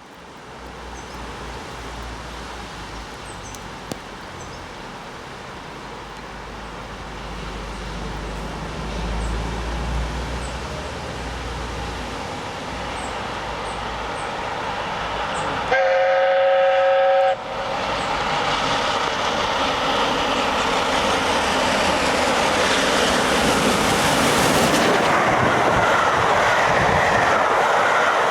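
LNER A1 class 4-6-2 steam locomotive 60163 Tornado approaching at speed, its noise building steadily, then one blast of about a second and a half on its chime whistle, a chord of several notes, a little past halfway. After the whistle the locomotive and its train thunder past loudly.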